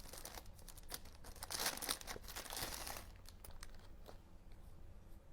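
Paper fast-food wrapper and bag packaging crinkling and rustling as it is handled and pulled open, with a dense run of crackling in the first half and scattered lighter crinkles after.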